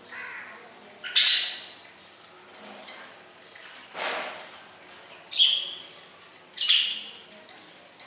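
Caged pet bird giving three loud, harsh squawks, about a second in, then twice more near the end, with a softer rushing sound around the middle.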